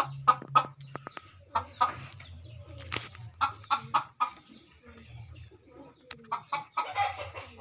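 Domestic hen clucking in runs of short, quick clucks, with domestic pigeons cooing low underneath.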